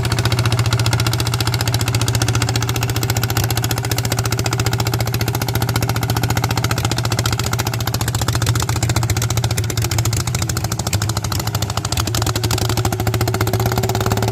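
Single-cylinder diesel engine of a walk-behind tractor running steadily with a rapid, even firing beat; its pitch lifts a little near the end.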